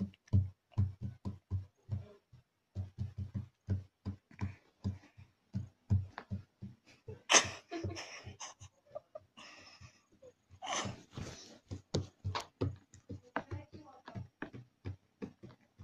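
Fingers tapping on a hard surface in a quick, uneven run of short knocks, a few a second. A few louder hisses come in around the middle.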